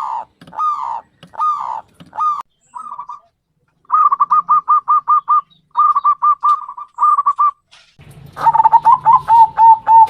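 Zebra dove (perkutut) cooing: a few drawn-out falling coos at first, then quick runs of short, clipped notes, several a second. About eight seconds in, a low hum joins beneath a louder run of notes.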